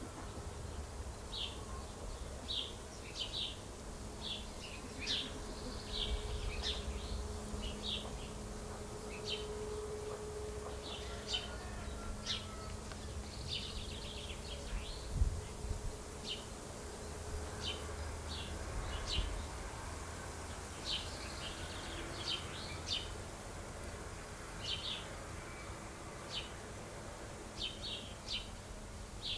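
Small birds chirping: short high chirps, irregular, about one or two a second, over a low steady hum and rumble. A single thump about halfway through.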